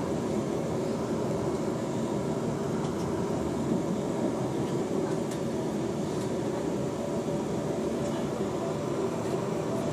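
Passenger train in motion, heard from inside the carriage: a steady running noise with a few faint clicks.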